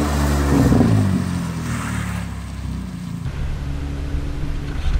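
Nissan Sentra's four-cylinder engine running through a handbrake turn on a wet road, its revs falling away about a second in. Later the engine is heard from inside the cabin, running steadily.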